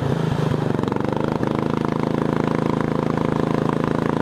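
Racing lawn tractor's engine running hard and steady while driving, with a brief break in its note about half a second in.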